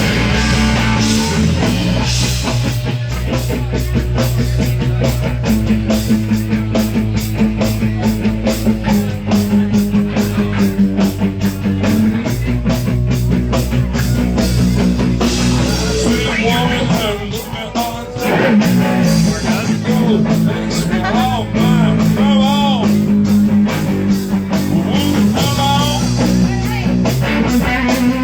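Live rock band playing an instrumental passage: a steady drumbeat under held bass notes, with an electric guitar lead bending notes in the second half.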